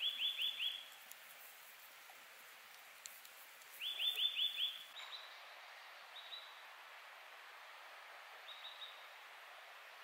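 A small songbird calling in short runs of four or five quick, high notes: twice clearly in the first five seconds, then several fainter times, over a faint steady outdoor hiss.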